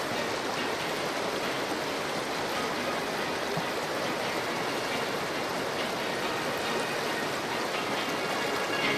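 Steady rush of fast-flowing spring meltwater from a mountain waterfall and its stream.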